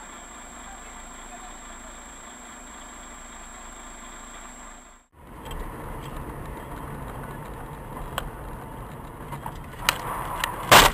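Car engine and road noise heard from inside a car on a dashcam, with a thin high whine. It breaks off about five seconds in and gives way to louder driving noise with a few clicks. A loud bang comes near the end.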